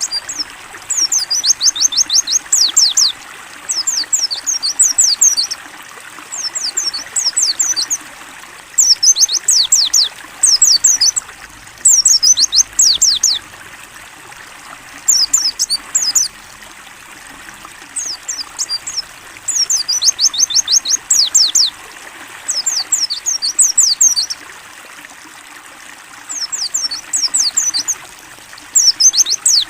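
A white-eye (pleci) singing in short bursts of fast, high, downward-slurred notes, about one burst every two seconds, over a steady trickle of running water.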